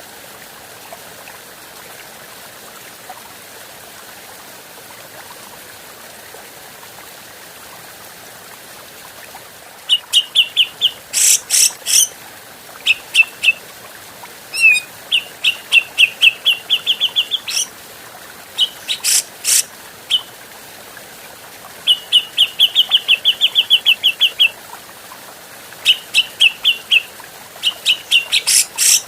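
Grey-cheeked bulbul (cucak jenggot) calling. After about ten seconds of steady hiss, it gives fast runs of short chattering notes, broken by a few loud, harsh rasping calls.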